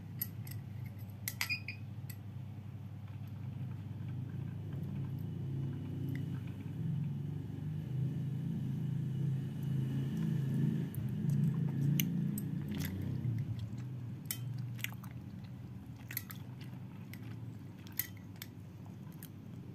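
Close-up chewing of soft, chewy Korean rice cakes (tteokbokki) in sauce, loudest in the middle, with a few sharp clicks of metal chopsticks against a glass plate.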